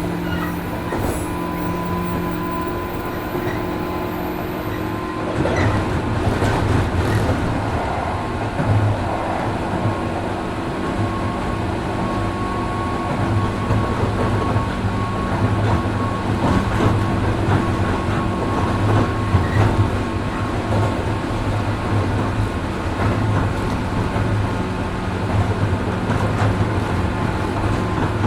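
Running sound of a 103 series 1500-subseries electric train, heard from inside the car at speed between stations: steady motor and gear whine over rail and wheel noise. About five seconds in the running noise grows louder and rougher.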